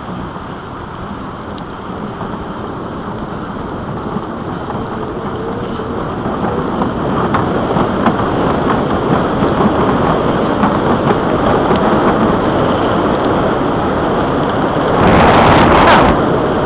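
Wind rushing over the microphone of a camera carried on a moving bicycle, growing steadily louder as the ride picks up speed, with a louder surge near the end.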